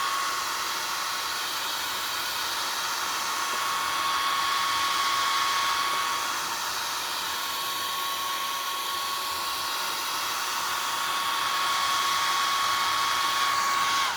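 Hair dryer blowing steadily with a high whine, used to dry wet acrylic paint on a canvas. It is switched off at the end, its whine falling as it winds down.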